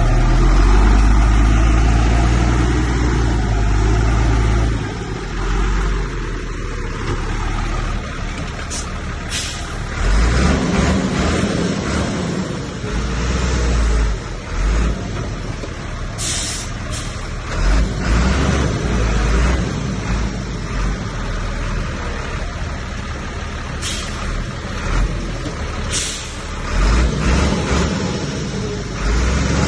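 Heavy diesel earthmoving machinery working, its deep engine rumble rising and falling under load, loudest in the first few seconds. Several short, sharp noises cut through it, four of them.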